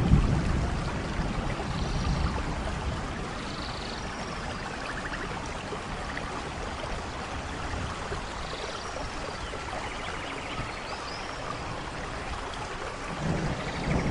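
Steady rainfall. A low thunder rumble dies away in the first second or two and another begins to build near the end, with occasional faint high chirps over the rain.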